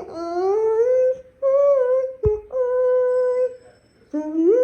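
A voice humming or singing wordless notes in short phrases, some gliding up in pitch and one held steady for about a second. A single knock about two seconds in.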